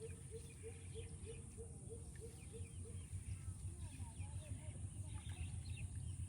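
Birds calling: one short call repeated about three times a second that stops about three seconds in, with scattered higher chirps throughout, over a steady low hum.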